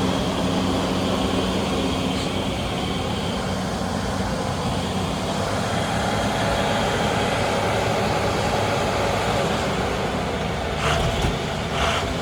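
Heavy army recovery truck's engine running steadily, its hum shifting higher about halfway through as it works to pull a car out of deep snow. Two short rushes of noise come near the end.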